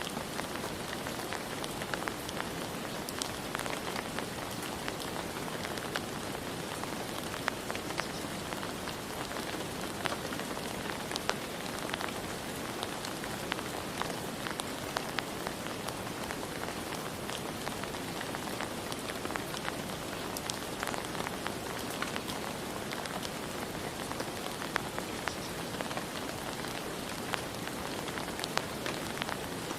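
Steady rain falling on a surface, a constant hiss with many scattered individual drop taps.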